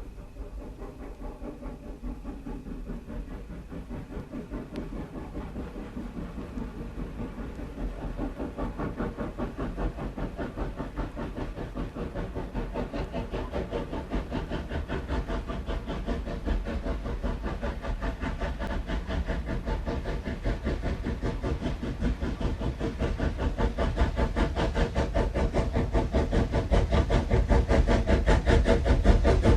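Steam locomotive running, a rapid, even beat of exhaust and rail noise over a hiss, growing steadily louder as it approaches.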